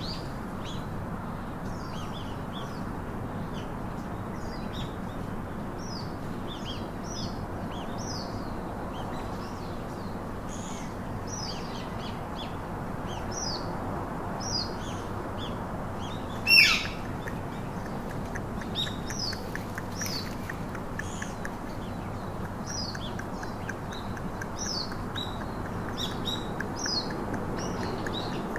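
Birds chirping repeatedly: short chirps that fall in pitch, every second or so, with one louder, sharper call about 17 seconds in, over a steady low background hiss.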